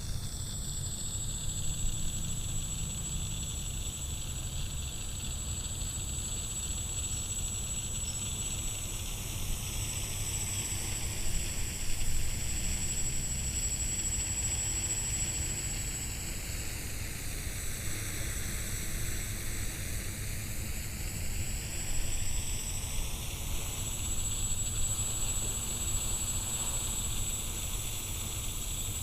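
Xaircraft X650 quadcopter's electric motors and propellers whirring steadily in flight, with a hiss that sweeps slowly up and down in pitch as the craft moves about.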